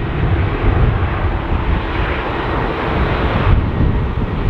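Jet airliner's engines at takeoff power: a loud, steady, rushing engine noise from an aircraft on its takeoff run.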